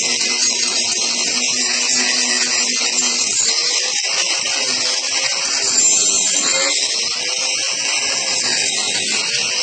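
Power carving tool fitted with a Saburtooth carbide cutter grinding into wood, running continuously. It makes a steady, loud hiss of cutting over a motor hum that wavers slightly in pitch as the load changes.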